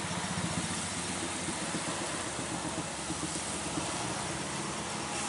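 A truck engine running steadily, with a constant hiss of background noise.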